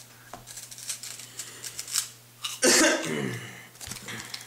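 Light, crisp crackles and clicks from a crunchy, cheese-puff-like snack being handled and eaten, then a brief, loud cough-like voice sound about two and a half seconds in, the loudest thing here.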